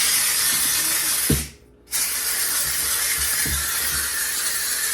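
McCulloch steam cleaner jetting steam with a loud, steady hiss, which stops for about half a second about a second and a half in and then starts again. A few faint knocks sound under the hiss.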